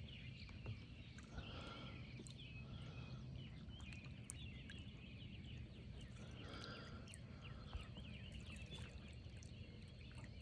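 Faint outdoor animal chorus: many small, quick chirps and calls going on without a break, over a low, steady rumble.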